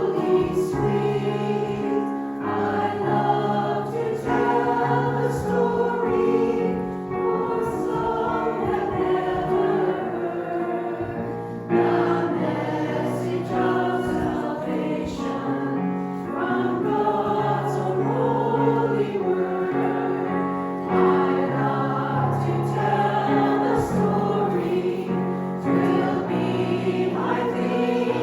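Church choir singing a Christian song, several voices together in sustained notes.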